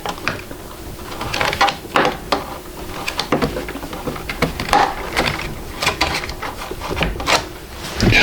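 Hands fitting and handling parts on a 3D printer: scattered clicks, knocks and small rattles at irregular intervals.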